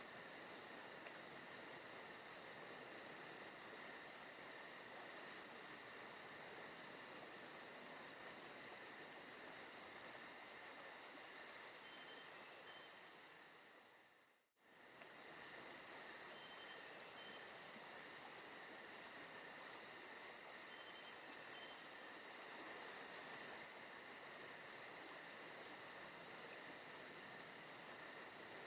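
Faint forest ambience of crickets and other insects trilling steadily. About halfway through it fades out for a moment and comes straight back.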